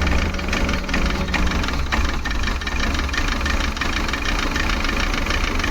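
Maruti Suzuki Eeco petrol engine idling roughly, with the whole engine shaking. It is a misfire that traces to a faulty MAP sensor reading high (code P0108).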